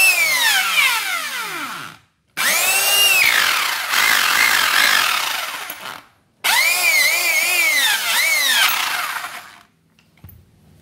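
Electric rotary hammer (concrete drill) motor test-run in three trigger squeezes. Its high whine wavers in pitch and falls away each time the trigger is let go. This is a drill whose bit is reported not to turn when drilling.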